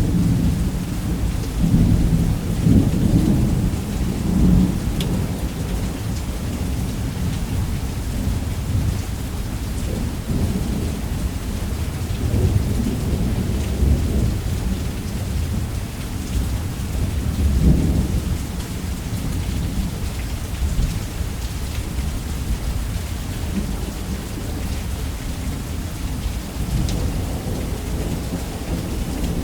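Heavy rain beating on a roof, a steady hiss, under continuous rolling thunder that swells and fades several times.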